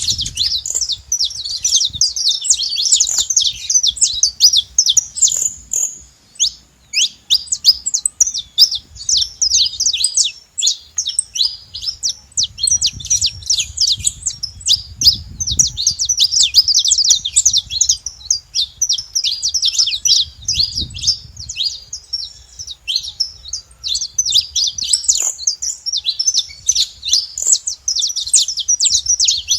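Saffron finch singing, a rapid, unbroken run of sharp, high chirps with a short break about six seconds in.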